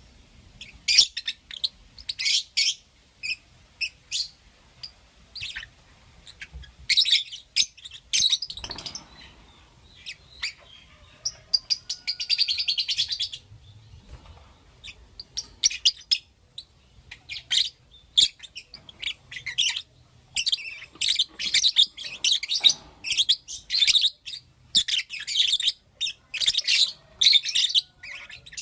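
Pet lovebirds chirping: runs of short, shrill chirps in quick succession, broken by pauses of a second or two.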